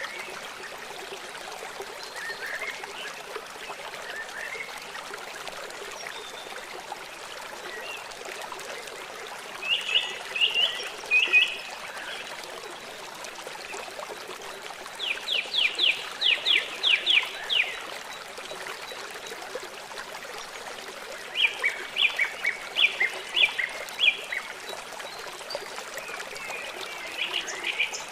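Songbirds singing short phrases of quick repeated notes several times, over a steady rush of flowing water.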